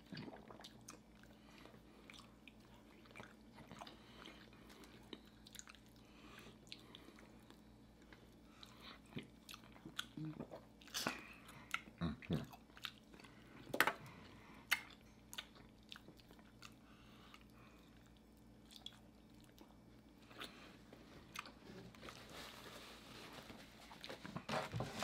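Faint, close-miked chewing and biting of two people eating turkey wings with their fingers. Scattered small clicks of mouths and food, with a few sharper ones around the middle.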